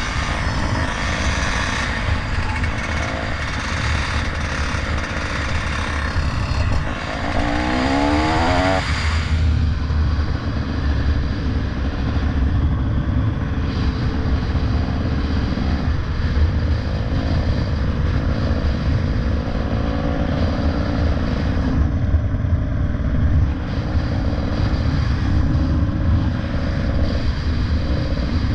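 Steady rumbling noise of riding a bike, wind and road noise dense in the low end. About seven to nine seconds in, a brief sliding tone passes through.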